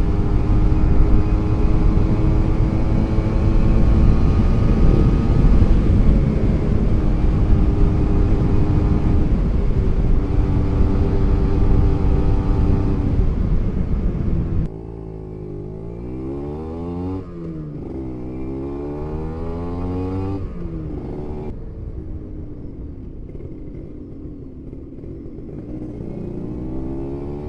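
Kawasaki Ninja two-stroke motorcycle engine under way, its steady note half buried in heavy wind rush on the helmet microphone. About halfway through the wind drops away abruptly and the engine is heard rising and falling in pitch as it is revved and eased off at low speed.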